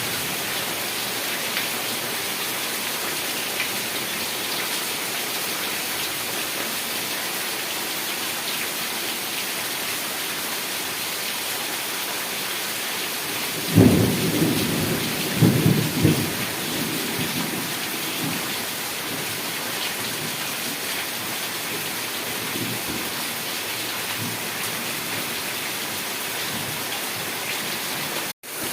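Heavy rain falling steadily, with a loud thunderclap about halfway through that rumbles on in a few surges for about three seconds. The sound cuts out for an instant near the end.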